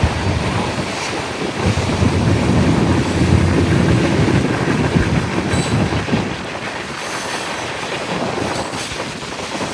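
Freight train rolling by, its cars and wheels rumbling on the rails; the rumble eases after about six seconds.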